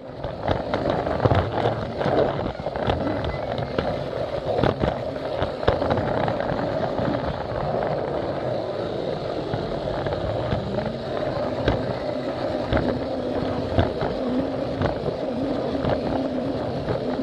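Plarail battery-powered toy train running on plastic track: a steady motor whir with irregular clicks and rattles from the wheels on the track.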